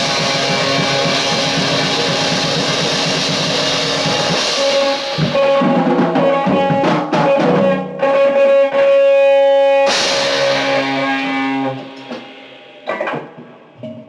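Lo-fi rock band music with electric guitar and drum kit, coming to its close: dense playing gives way to held ringing chords about four seconds in, a sudden crash about ten seconds in, then the sound dies away near the end.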